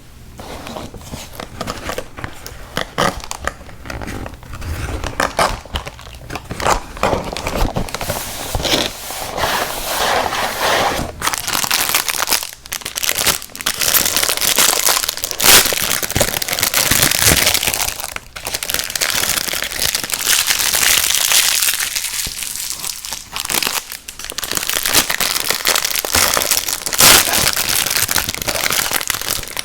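Plastic candy packaging crinkling and crackling close to the microphone, handled continuously with many small sharp crackles.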